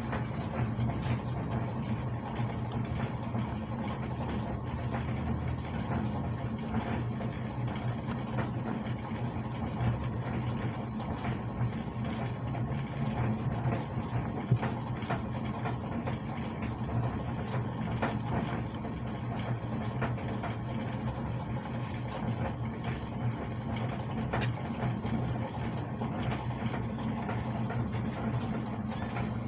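A kitten purring steadily, a continuous low rumble without a break.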